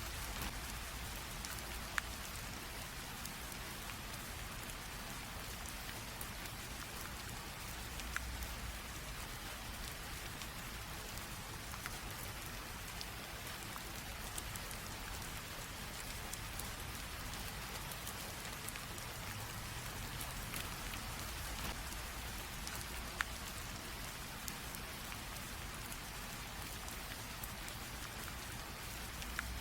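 Light rain drizzling steadily, a soft even hiss with now and then a sharper tick of a single drop striking close by.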